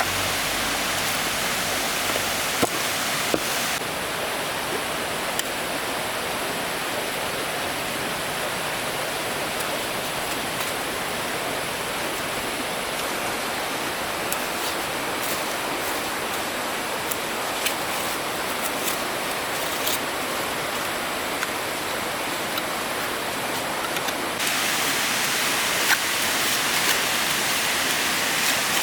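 Steady rushing of water, with scattered faint ticks. The noise changes abruptly about four seconds in and again near the end.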